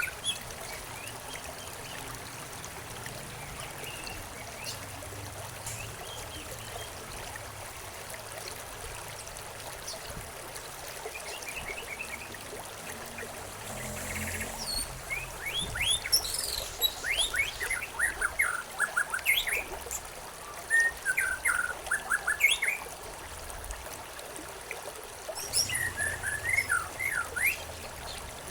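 Small birds chirping in quick bursts over the steady trickle and rush of a stream. The birdsong is sparse in the first half and comes in busy clusters from about halfway through.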